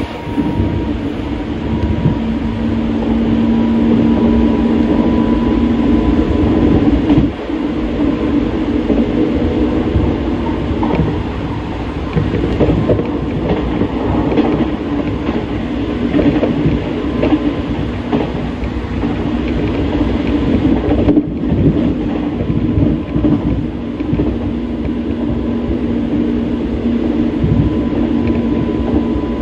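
Hanshin commuter train running, heard from inside the carriage: a steady rumble of wheels on the rails. A steady hum rides over it for the first several seconds, fades out, and comes back in the last several seconds.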